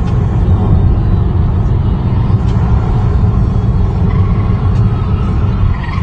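Steady low road and engine rumble of a moving car, heavy in the bass and without any distinct impact.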